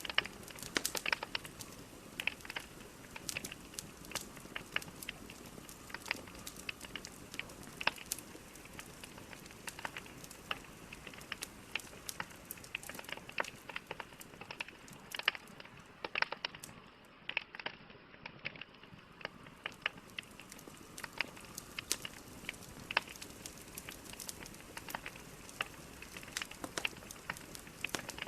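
Logs burning in a fireplace: irregular sharp crackles and pops over a steady soft hiss of the fire.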